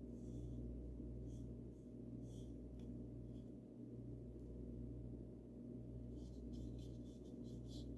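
Paintbrush stroking paint onto a wooden bird house: soft, brief brushing swishes about once a second at first, then quicker, closer strokes near the end. A steady low hum runs underneath throughout and is the loudest part.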